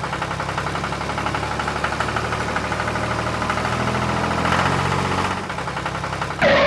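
Small tractor engine running in a steady fast chug, picking up slightly about four to five seconds in and then settling back. A louder, different sound breaks in just before the end.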